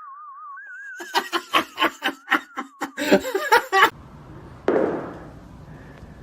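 A wavering, warbling tone steps down in pitch, like a comic sound effect, then gives way to a burst of rapid laughter lasting about three seconds. A short noisy thud follows near the end.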